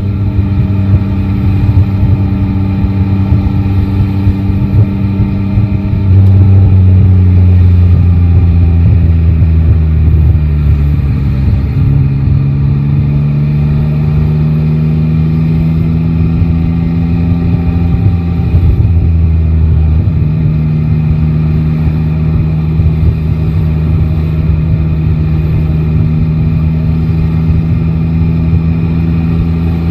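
Yamaha Tracer 9 GT's inline three-cylinder engine running under way. It gets louder about six seconds in as it pulls harder, dips briefly in pitch near the middle, then climbs steadily before easing off.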